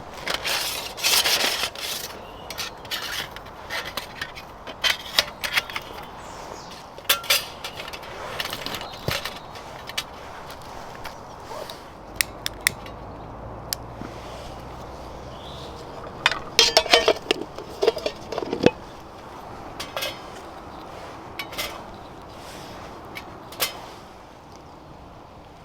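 Scattered clinks, taps and scrapes of metal camp cookware and utensils being handled, with a busier run of clattering and brief ringing about two-thirds of the way through.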